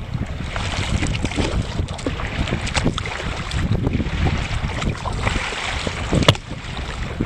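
Wind buffeting the microphone with water splashing and slapping against a sailing kayak's hull as it moves under sail. A single sharp knock comes about six seconds in.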